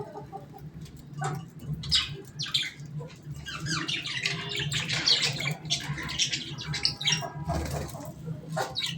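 Birds chirping and squawking in short, quick calls while feeding, sparse at first and then busy and overlapping from a few seconds in, over a low hum.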